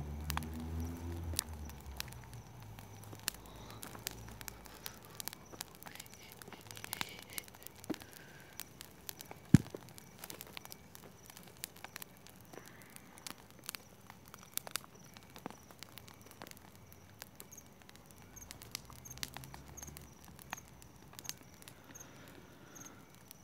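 Bonfire of dry garden grass crackling, with irregular sharp pops and one loud pop about nine and a half seconds in.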